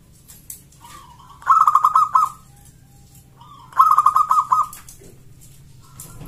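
Zebra dove cooing twice: each song is a soft opening note followed by a quick run of short, rolling coos.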